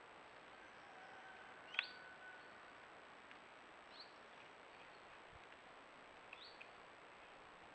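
Faint bird calls over steady hiss, picked up by a trail camera's microphone: a few short, quick falling chirps. The loudest chirp comes about two seconds in, alongside a brief held whistle.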